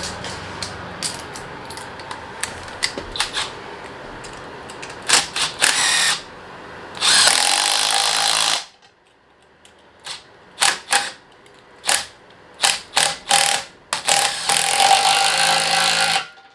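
Cordless electric ratchet spinning in two bursts of about a second and a half, about seven seconds in and again near the end, tightening the intercooler pipe clamps, with sharp clicks and knocks of tool and hardware handling in between.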